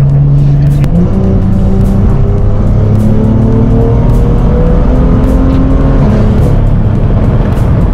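BMW M2 F87's N55 turbocharged straight-six running under load through its aftermarket iPE exhaust: the revs jump up about a second in, climb slowly, then fall near six seconds.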